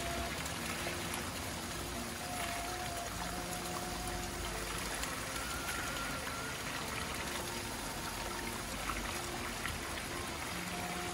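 Steady rain falling, with water trickling and running.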